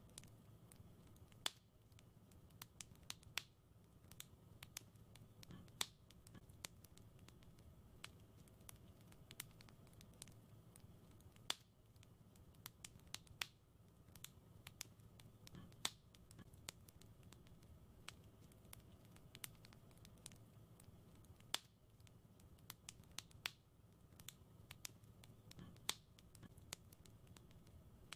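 Wood fire in a fireplace crackling: irregular sharp pops and snaps, some louder than others, over a low steady rumble.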